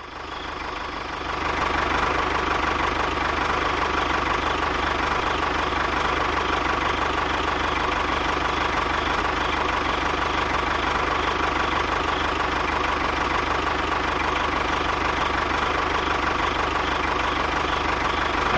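A small motor running steadily, building up over the first second or two, with a steady whine.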